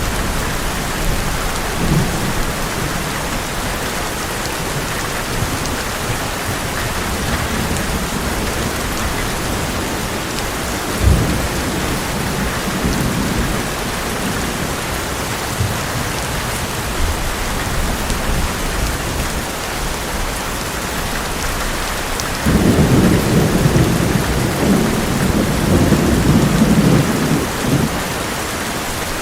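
Heavy rain falling steadily on an old metal roof, with thunder several times: a sharp clap about a third of the way in, followed by low rumbling. A longer, louder roll of thunder comes near the end and lasts several seconds.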